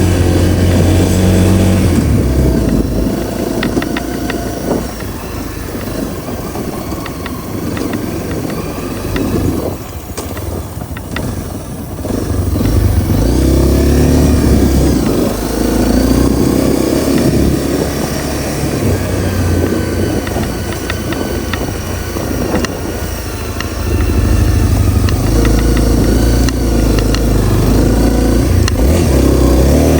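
Honda CRF250L's single-cylinder four-stroke engine running on the move, the engine note easing off for stretches and picking up strongly again about twelve seconds in and near twenty-four seconds in.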